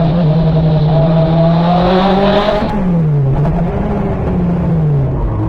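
Renault 5 Turbo Gr4 rally car's turbocharged four-cylinder engine under load. Its note holds steady and creeps up, then falls and rises twice in the second half as the throttle is lifted and reapplied.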